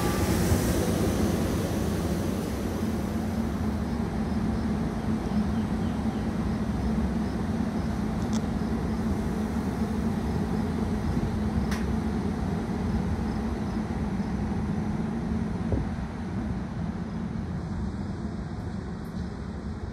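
Train running past on the rails: a steady rumble with a low hum that slowly fades.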